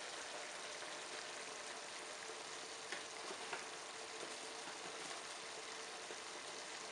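Chicken giblets and hearts frying in a pan over a gas burner: a steady, soft sizzle, with a couple of faint ticks about three seconds in.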